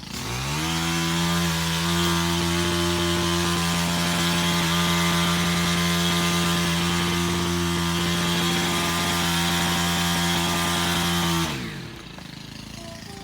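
Small engine of a handheld power tool, likely the new cutting machine, revving up from idle just after the start. It holds steady at full throttle for about eleven seconds, then drops back to idle near the end.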